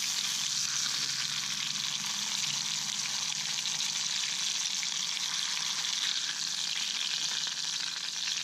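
Hot oil sizzling steadily as damselfish bones deep-fry into bone crackers (hone senbei).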